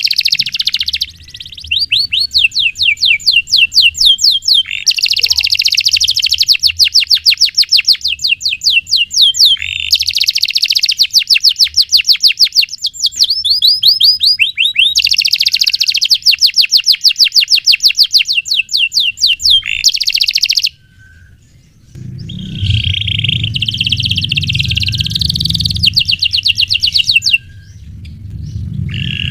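Domestic canary singing long, fast rolls of rapidly repeated high chirps in phrases of a few seconds, with short breaks between them. The song stops briefly about two-thirds of the way through, then goes on over a low background hum.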